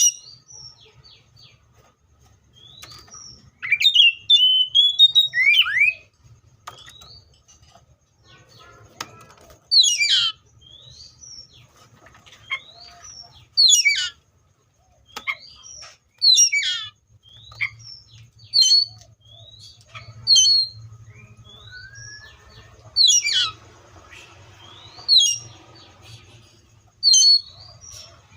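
Seychelles magpie-robin singing loud, clear whistled phrases, repeated every two to three seconds. Sharp falling whistles alternate with short rising notes, and there is one longer warbled phrase about four seconds in.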